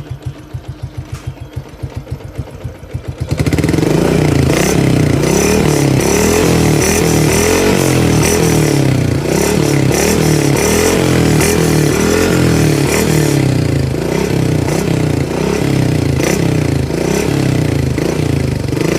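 Motorcycle engine idling with an even putter through a Suzuki Satria FU stock exhaust. About three seconds in it is revved up and held at high revs, the pitch wavering up and down.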